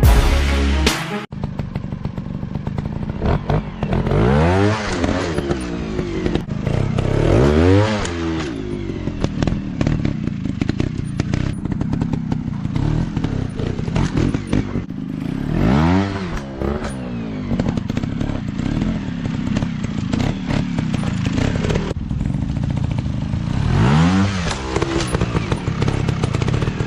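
Off-road dirt bike engine running and revving, its pitch climbing and dropping about four times as the throttle is worked, with some clattering over rough ground.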